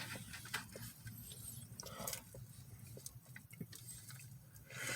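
Faint eating noises: chewing and small mouth sounds, with scattered light clicks and rustles.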